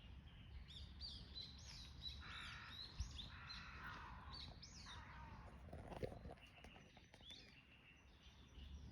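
Birds chirping faintly: a busy run of short, high, arching calls that thins out near the end.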